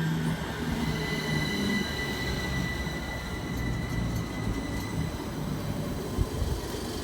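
Train running on the rails, a continuous low rumble with a steady high-pitched wheel squeal over it, and a brief knock about six seconds in.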